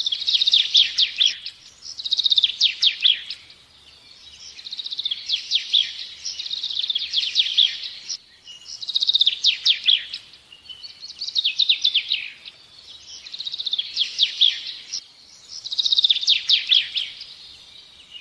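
A songbird singing: repeated phrases of rapid, high trilled notes, a new phrase starting about every two seconds with short pauses between them.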